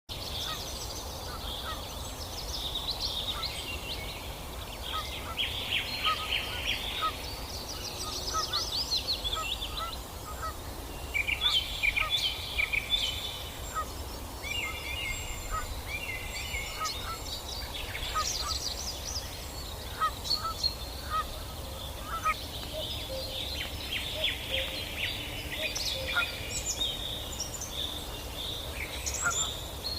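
Canada geese calling, with many short, repeated calls coming in bursts throughout, over a steady low background rumble.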